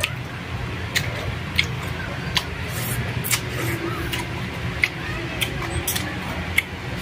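Close-miked eating sounds: chewing with sharp mouth clicks and lip smacks about once or twice a second, over a steady low hum.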